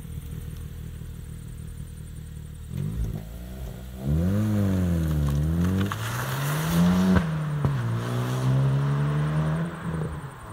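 Hyundai i20 N's 1.6-litre turbocharged four-cylinder petrol engine pulling away hard: a low, steady note for the first few seconds, then loud revs that rise, dip and climb again. About seven seconds in the pitch drops sharply as it shifts up a gear, then climbs more slowly and fades as the car drives off.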